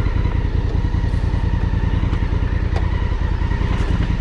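Honda Africa Twin CRF1000L's parallel-twin engine running steadily, a low even pulsing.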